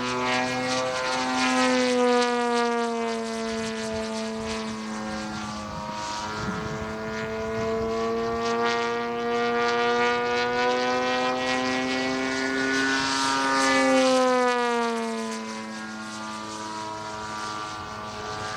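Large-scale OMP Hobby Edge 540 model aerobatic plane flying, its GP123 engine with MTW tuned pipes running at a steady pitch that rises and falls through the manoeuvres. Near the end it grows loudest, then drops in pitch as the plane passes by.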